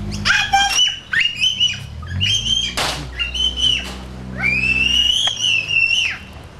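Little girl squealing in high-pitched excitement: several short squeals, then one long drawn-out squeal near the end. A vehicle engine runs low underneath until shortly before the end.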